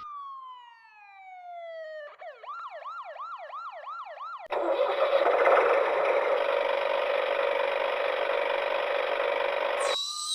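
Electronic sound effects from a battery-operated toy vehicle. A falling whistle runs for about two seconds, then a rapid siren warble of about three wails a second until about four and a half seconds in, then a steady engine-like whir that switches near the end to gliding tones.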